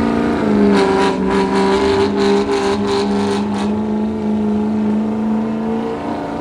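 Engine of a pulling truck or tractor running loud and steady during a pull, with a quick run of sharp cracks from about a second in to nearly four seconds in.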